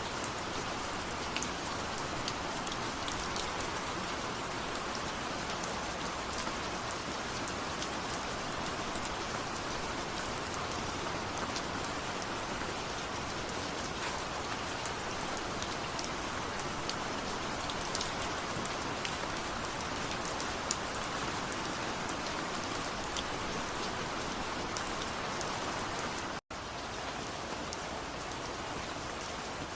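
Steady rain falling, with scattered individual drops ticking sharply over the even hiss. The sound drops out completely for a split second about 26 seconds in, then resumes.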